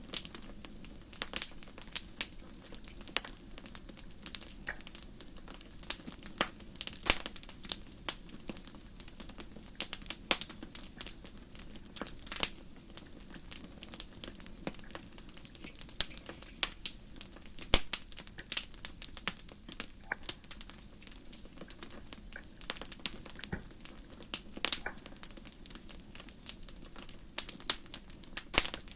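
Wood fire crackling: irregular sharp pops and snaps over a low steady hum.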